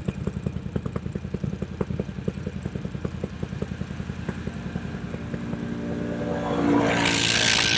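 Can-Am Renegade ATV's V-twin engine running at low revs with an even chugging pulse, then revving up over the last couple of seconds, louder and with a rising rush of noise.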